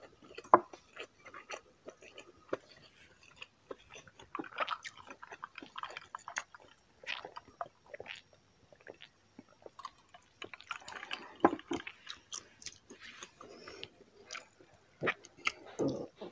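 Close-miked chewing and wet mouth sounds of someone eating braised pork humba and rice, with many irregular sharp smacks and clicks.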